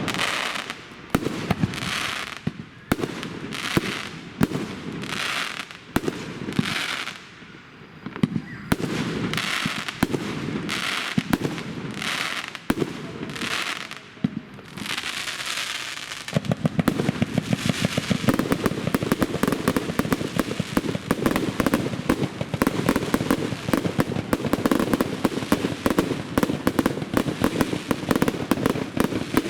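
Fireworks display: shells bursting in the sky about once a second, each with a crackling hiss. About 16 seconds in, this gives way to a dense, continuous barrage of rapid bangs.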